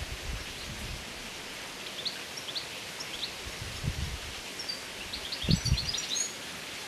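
Outdoor ambience: a steady hiss with small birds chirping in short quick calls, a few around two to three seconds in and a busier run near the end. A few low thumps come through, the loudest about five and a half seconds in.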